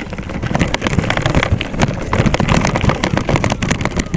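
Riding noise from a camera carried on a moving bike: a constant low rumble of wind on the microphone, with dense, irregular rattling knocks.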